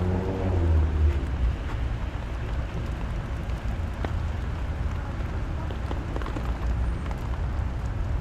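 Steady rain falling, with scattered sharp drop ticks and a low rumble underneath.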